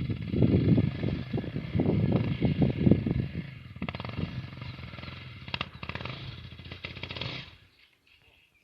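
Motocross motorcycle engine running, under a heavy, uneven low rumble for the first three seconds. The sound fades and stops about a second before the end.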